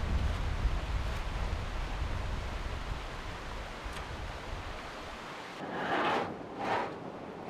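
Steady rain hiss with wind rumbling on the microphone. About five seconds in the rumble drops away, and two short swells of rustling noise follow.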